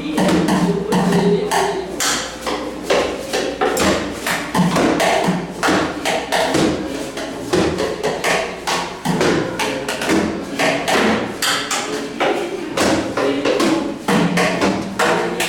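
Percussion played on recycled and reused objects: a busy, steady pattern of knocks and taps, several a second.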